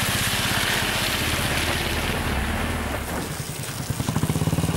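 Royal Enfield Bullet's single-cylinder engine running with an even beat of exhaust pulses, over a hissing rush in the first couple of seconds. The engine sound eases about three seconds in, then picks up again near the end.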